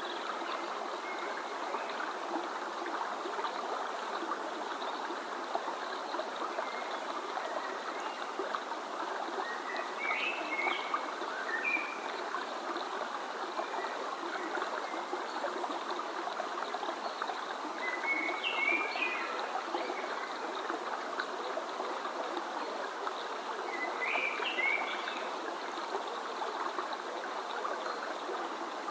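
Running water from a stream, steady throughout, with short bursts of bird chirping three times.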